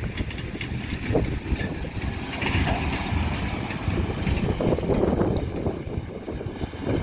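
Heavy harvest machinery running, a low rumble with irregular rattling surges, with some wind on the microphone.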